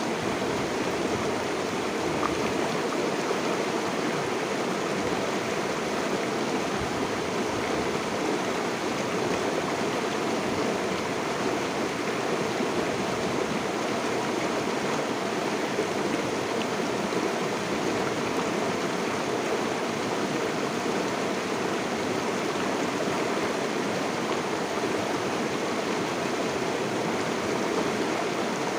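Water flowing steadily in a stream or river, an even rushing burble with no breaks.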